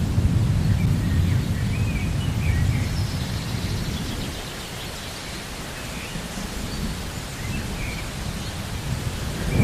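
Rain with a deep rolling rumble of thunder that dies away around the middle and builds again near the end, and faint bird chirps over it.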